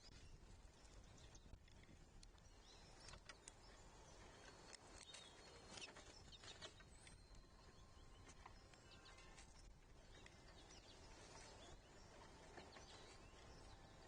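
Near-silent outdoor ambience with faint, scattered bird chirps and light clicks and taps.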